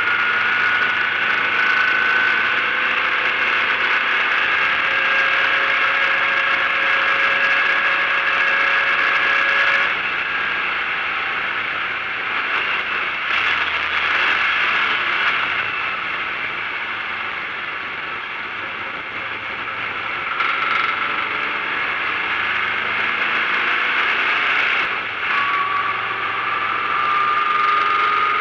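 Air-cooled flat-four engine of a racing VW Beetle heard from inside the cabin under way: its pitch climbs steadily for about ten seconds, then drops off suddenly. It runs lower with rattling and road noise, and starts climbing again near the end.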